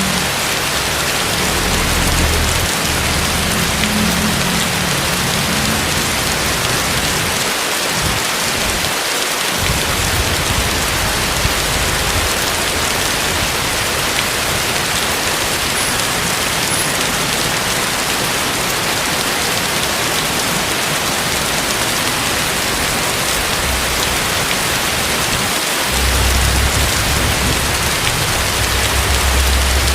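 Heavy tropical rain falling steadily, a dense even hiss, with a low rumble underneath that fades out and comes back, strongest near the end.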